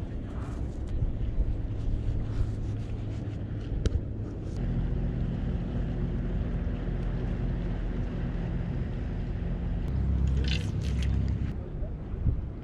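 A motor engine running steadily with a low hum, its tone shifting about four and a half seconds in, with a few light clicks over it.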